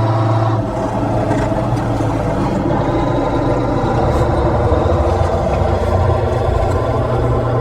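Semi truck's diesel engine running with a steady low hum, heard from inside the cab.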